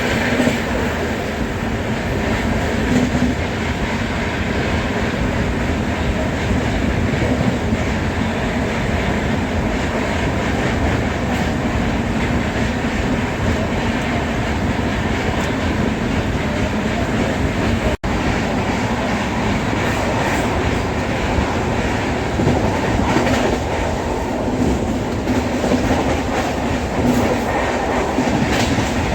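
Passenger train running along the track, heard from inside a coach: a steady rumble of wheels on rail with rail-joint clickety-clack. The sound drops out for an instant about eighteen seconds in.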